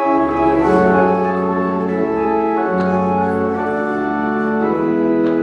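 Church organ playing full, sustained chords of the liturgy's music, entering sharply and moving slowly from chord to chord every second or two.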